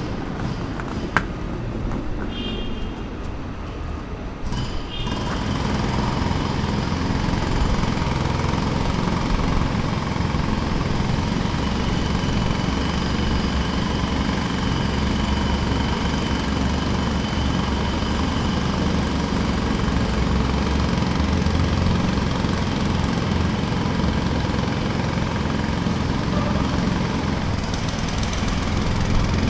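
Jackhammer running steadily. It comes in louder about five seconds in, after a quieter start with a single sharp click.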